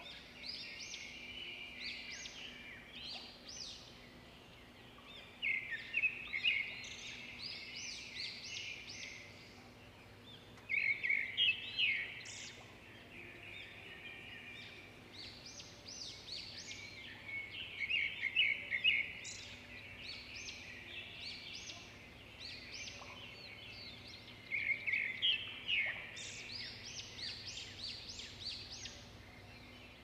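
Birds chattering in groups of quick, high chirping notes every few seconds, over faint steady background noise.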